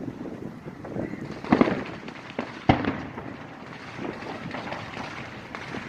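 Fireworks going off: a bang about one and a half seconds in, then a sharper crack a little over a second later.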